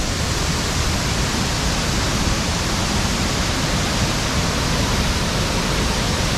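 Waterfall: a steady, loud rush of falling water that never lets up.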